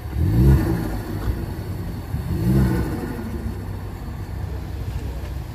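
A car engine revved twice in quick blips, its note rising and falling each time, about two seconds apart, over the steady low rumble of idling engines.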